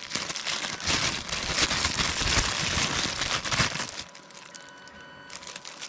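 Plastic wrapping crinkling and rustling as packed items are unwrapped, dying down about four seconds in.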